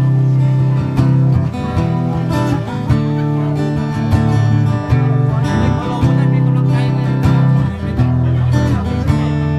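Acoustic guitar strummed in a steady rhythm with strong low bass notes, playing the instrumental opening of a blues song before the vocals come in.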